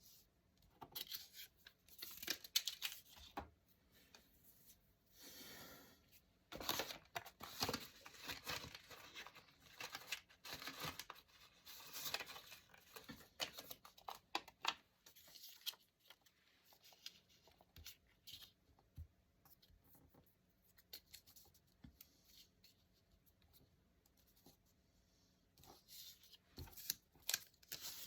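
Paper being torn and handled close up in short, scratchy bursts. The bursts are busy through the first half, thin out for several seconds, then pick up again near the end.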